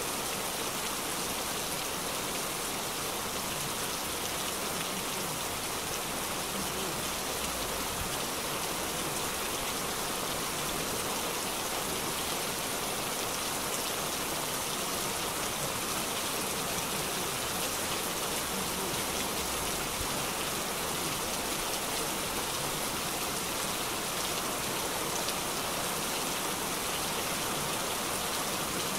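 Heavy rain pouring onto a wet paved street, a steady, even hiss of drops splashing on the pavement.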